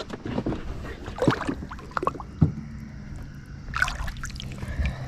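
Water splashing and knocks against the boat as a largemouth bass is lowered back into the water and released, with a low steady hum coming in about halfway through.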